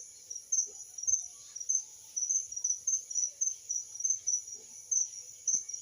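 Crickets chirping at night: short, high chirps repeating two or three times a second, unevenly spaced, over a steady fainter high insect hiss.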